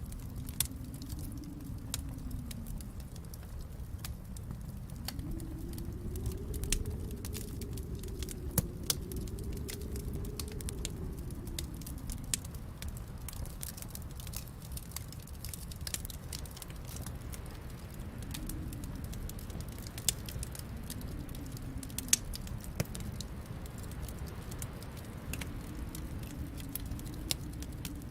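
Wood fire crackling in a fireplace, with scattered sharp pops over a low steady rumble. Beneath it, snowstorm wind makes a faint howl that slowly rises and falls.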